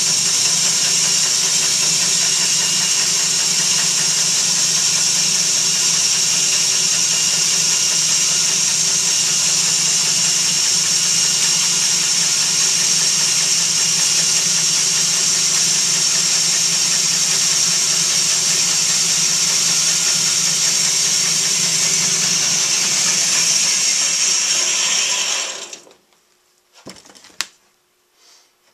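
Power saw running steadily, cutting a slit across a wooden roof piece to take a piano hinge; it shuts off abruptly near the end, followed by a few light clicks.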